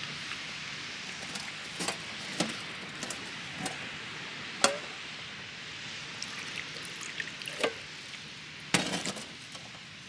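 Food sizzling on a barbecue grill, a steady hiss, with about six sharp clinks and knocks of utensils scattered through it.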